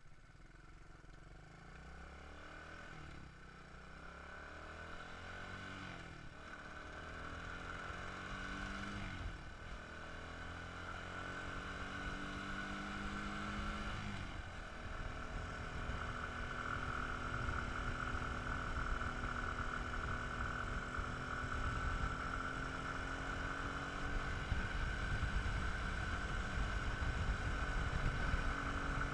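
Dirt bike engine accelerating up through the gears: the pitch climbs and drops back four times, then holds steady at a cruising pitch. Rumbling noise builds as the bike gets louder.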